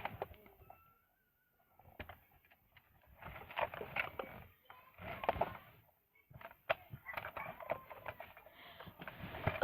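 Plastic Hess toy truck being handled: scattered sharp clicks and short rustling, rattling bursts as parts and doors are worked open.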